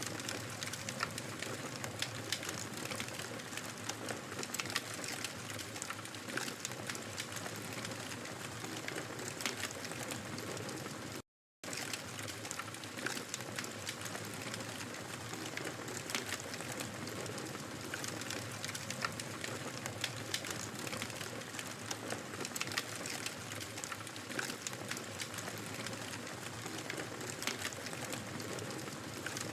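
Wood fire crackling steadily, with many sharp irregular pops and snaps over a soft hiss of burning. The sound drops out to silence for a split second about eleven seconds in, then carries on.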